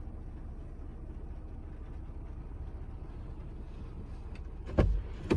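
Steady low rumble inside a car's cabin, with two sharp thumps near the end, about half a second apart.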